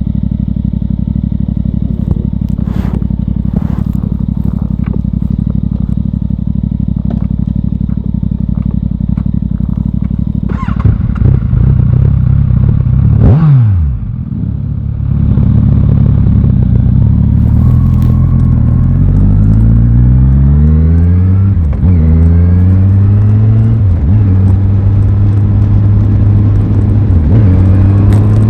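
Aprilia Tuono 660's parallel-twin engine on the road, running steadily at first, then revving up and dropping sharply as the throttle closes about halfway through. It then accelerates repeatedly, the pitch rising and falling back at each gear change.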